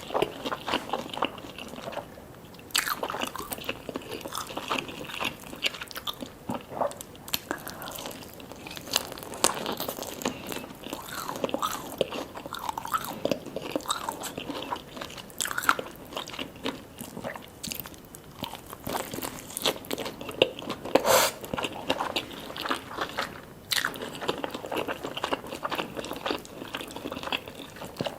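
Eating sounds of jajangmyeon noodles and honey yangnyeom fried chicken: repeated crunchy bites and chewing, with sharp crackles all the way through.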